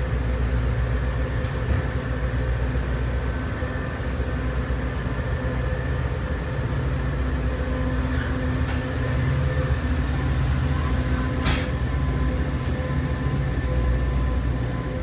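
Metra gallery commuter coach rolling slowly out of the station, heard from inside the car: a steady low rumble with a constant hum over it. A few sharp clicks come through it, the loudest about eleven seconds in.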